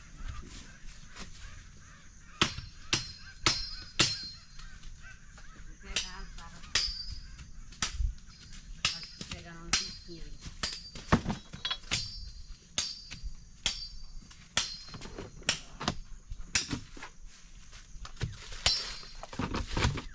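Repeated sharp metallic strikes at an irregular pace of roughly one to two a second, each with a brief high ring.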